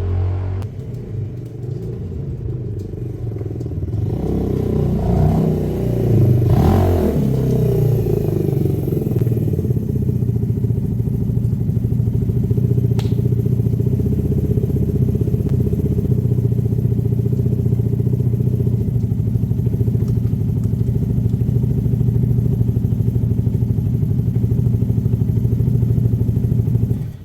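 Herald motorcycle engine running: the revs rise and fall over the first several seconds, then it holds a steady, even beat.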